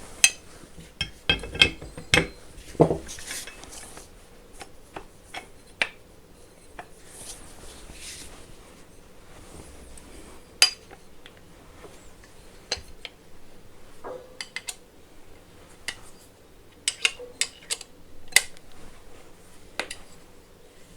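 Irregular metallic clinks, taps and rattles of metal parts and a spanner being handled while a wheel is fitted to a Bosch GWS 750 angle grinder. The clinks come thickest in the first few seconds and again near the end.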